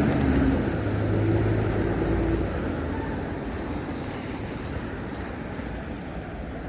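Wind rushing on the microphone and wet-road noise while riding a bike in the rain. A vehicle engine hums in the first couple of seconds, and the noise eases off toward the end.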